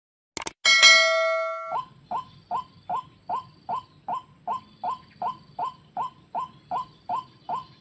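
A single ringing metallic clang about a second in, then a white-breasted waterhen's call: short, even notes repeated about two and a half times a second.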